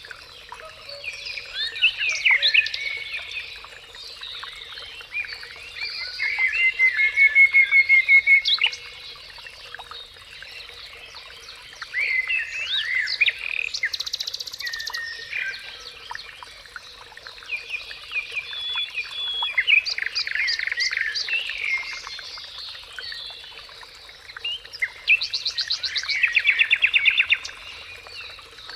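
Songbirds singing outdoors, several overlapping songs of chirps and quick whistles. Loud rapid trills come about a quarter of the way in, near the middle and near the end.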